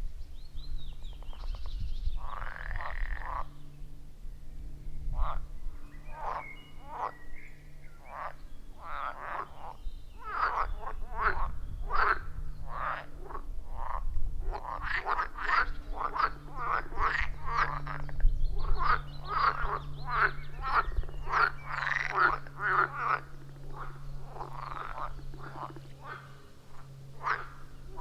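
A chorus of frogs calling at a pond: many short croaks repeating and overlapping, growing thicker and louder after the first several seconds.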